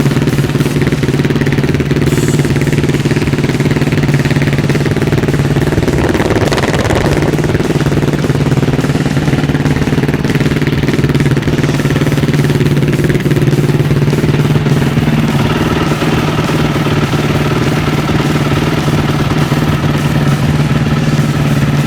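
Yamaha YZ450F's single-cylinder four-stroke engine idling steadily after a cold start.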